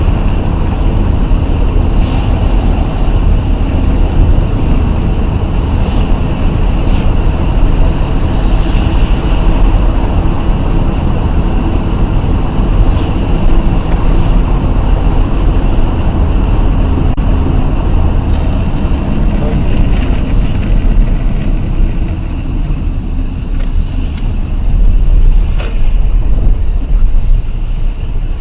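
A road vehicle on the move: a steady, loud rumble of engine and road noise.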